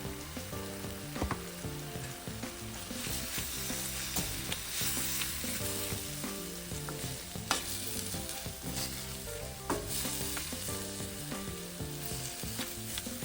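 Ground beef sizzling as it fries in a pan, stirred with a wooden spatula that scrapes and knocks against the pan a few times.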